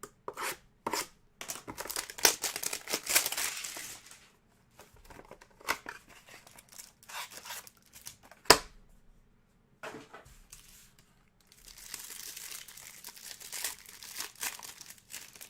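Trading-card packaging being torn open and crinkled, in two long rustling, ripping stretches with scattered handling clicks, and one sharp snap about halfway through that is the loudest sound.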